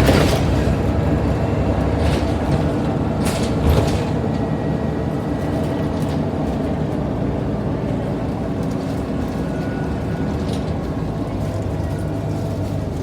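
Scania N94UD Omnidekka double-decker bus running, a steady low engine drone with a few sharp knocks and rattles, slowly growing quieter as it eases off.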